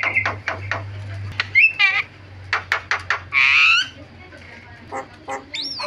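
Javan myna singing a varied song: a run of rapid clicking chips, a wavering warbled phrase, a loud harsh whistled note about halfway through, and a quick rising whistle near the end.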